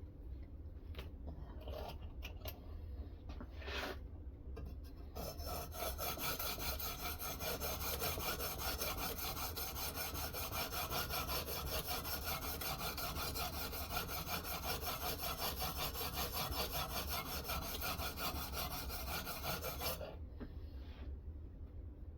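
A sharpening stone on a guided knife-sharpening system being stroked rapidly back and forth along a knife blade, a dense rasping scrape. A few separate single strokes come first, then continuous fast strokes start about five seconds in and stop a couple of seconds before the end.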